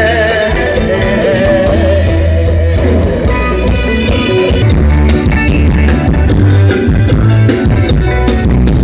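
Loud Thai mor lam band music through a large concert sound system, with a heavy, pulsing bass line and drums. A wavering melody line carries the first few seconds, and the drum hits stand out more in the second half.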